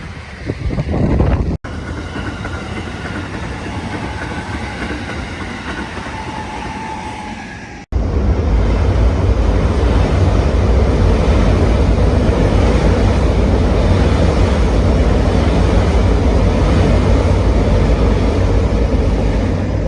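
Electric commuter train running through a station in typhoon wind and rain. Two sudden cuts break the sound. Between them come a faint high whine and a steady rush, and from about eight seconds in a loud, steady low rumble takes over.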